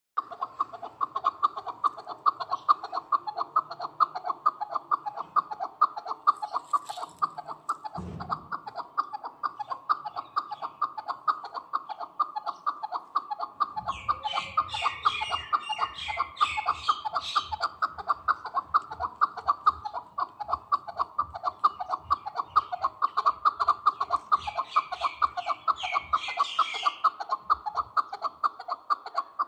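Chukar partridge calling continuously, a rapid cackling chatter of repeated notes. Higher chirping notes join in twice, about halfway through and again near the end.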